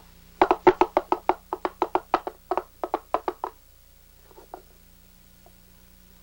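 Quick series of sharp wooden knocks, about four a second for some three seconds, then two faint knocks.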